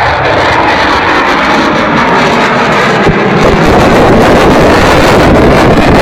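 Loud, steady jet noise from a Panavia Tornado's two RB199 turbofan engines, growing a little louder about three seconds in.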